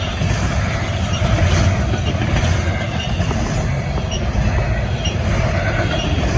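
Long double-stack intermodal freight train rolling past: a steady noise of steel wheels on rail, strongest low, with faint high squeal tones.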